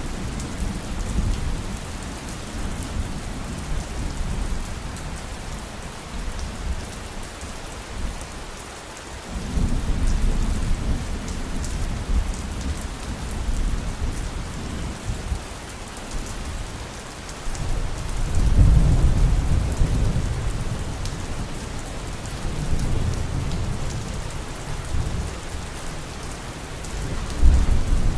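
Steady heavy rain falling, with deep rolling thunder rumbles that swell about a third of the way in, again past the middle, and once more at the end.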